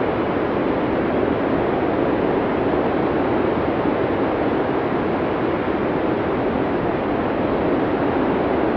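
Arctic blizzard sound effect: a steady, dense rush of wind noise with no distinct gusts or whistles, its weight in the low-middle range.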